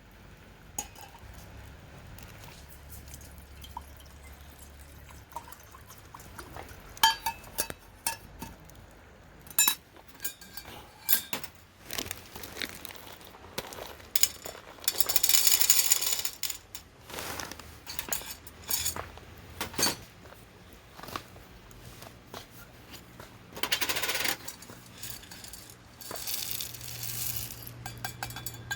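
Light clinks, knocks and clatter of small hard objects, like dishes, utensils or other metal and glass gear being handled. A longer rushing noise comes about halfway through and another near the end.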